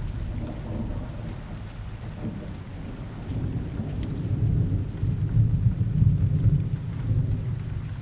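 Rain falling steadily with low rolling thunder, which swells midway and then eases.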